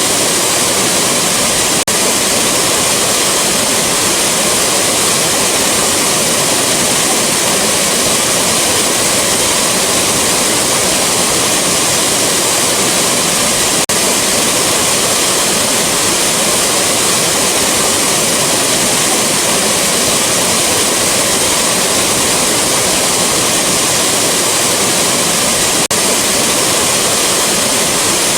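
Waterfall rushing: a loud, steady, dense roar of falling water. It dips very briefly three times, about twelve seconds apart, where the looped recording joins.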